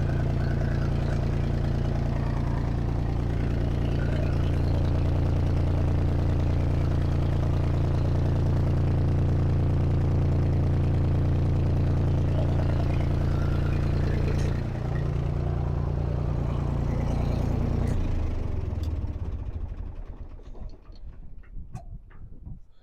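Tractor engine idling steadily, then shut off about 18 seconds in and running down to a stop over a couple of seconds, followed by a few faint knocks.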